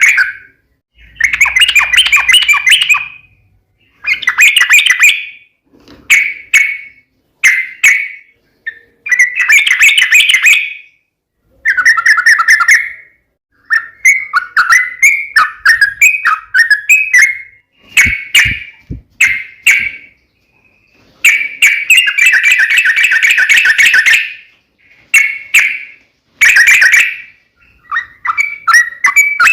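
Yellow-vented bulbul singing loud, fast chattering phrases in repeated bursts, some brief and some about three seconds long, with short pauses between them. This is the excited fighting-song style used to provoke other bulbuls into answering.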